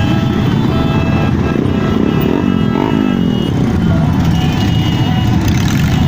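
Motorcycle engines running in a passing parade, with one engine's pitch dipping and rising between two and three seconds in, over background music.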